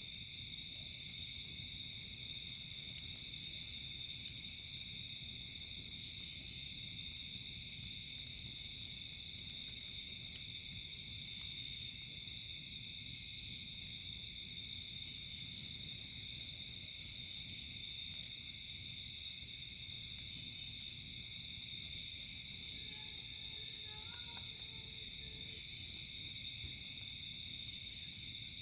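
Steady night chorus of insects, continuous and high-pitched. A higher buzzing call comes in about every six seconds, each starting with a quick stutter and holding for a second or two.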